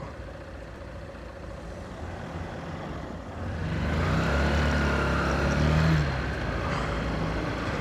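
Honda CBF 125's single-cylinder four-stroke engine running under way, with road and wind noise; the engine note gets louder about halfway through as the bike picks up, then eases slightly near the end.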